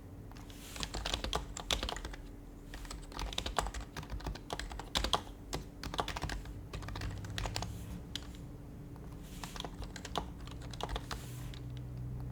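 Typing on an HHKB Professional Hybrid Type-S keyboard with silenced Topre switches: quick runs of keystrokes broken by short pauses, over a faint steady low hum.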